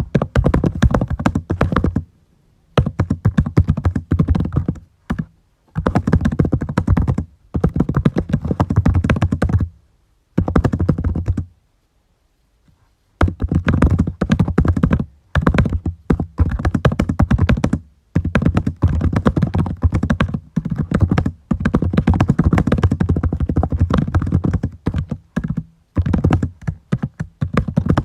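Computer keyboard typing in quick runs of keystrokes lasting a second or two, broken by short pauses, with one longer pause near the middle.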